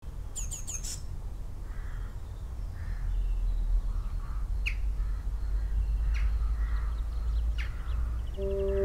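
Birds calling over a steady low rumble: a quick run of four sharp, high, falling calls about half a second in, then single calls every second or so. Sustained musical tones come in just before the end.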